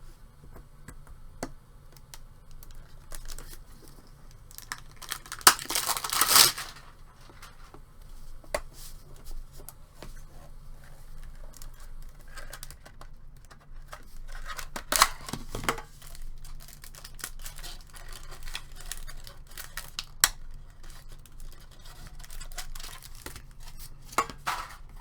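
Trading card pack wrappers being torn open, with two louder tears about six and fifteen seconds in, and light rustling and clicking as the cards are handled in between.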